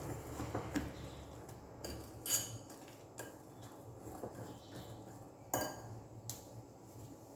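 A mixing utensil clinking and scraping against a bowl while stirring thick cake batter, in irregular knocks about a second apart, the strongest clinks about two seconds in and just past halfway.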